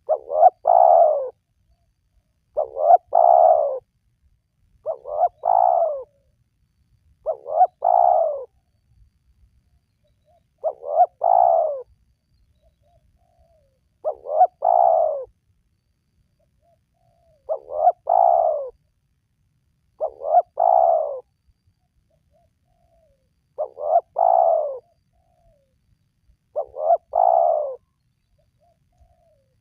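Spotted dove (tekukur) cooing: the same short coo phrase, each with a brief break inside it, repeated about ten times every two to three and a half seconds.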